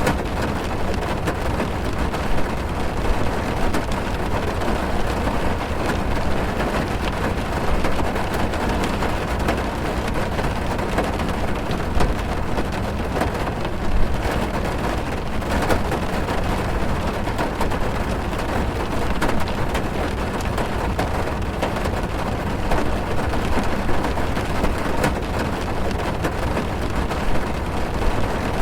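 Heavy rain falling on a car's roof and windows, heard from inside the car. A steady hiss over a deep low rumble, with many single drops ticking through it, a couple of them louder about halfway through.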